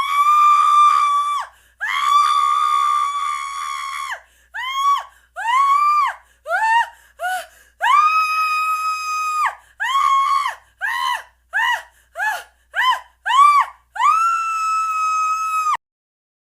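A series of shrill, high-pitched squealing cries: two long held squeals, then a quick run of short squeals that rise and fall in pitch, and a final long squeal that cuts off suddenly.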